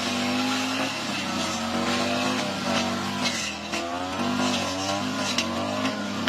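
Lawn mower engine running, its pitch wavering up and down as the load changes, with scattered sharp ticks.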